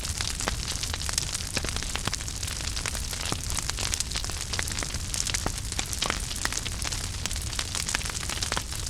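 Wood fire in a fireplace burning steadily, with a continuous hiss and low rumble and frequent irregular crackles and pops.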